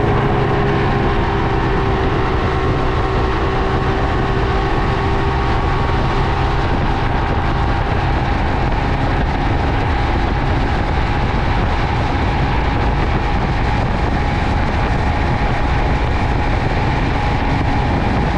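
Motorboat engine running steadily under way, with a constant rumble, the rush of the hull through the water and a faint steady whine.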